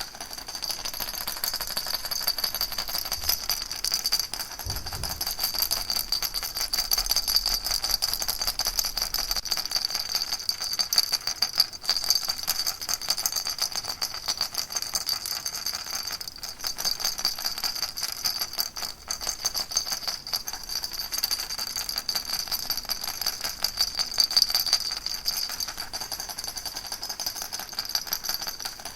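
Baby rattle shaken without a break: a dense, steady rattling.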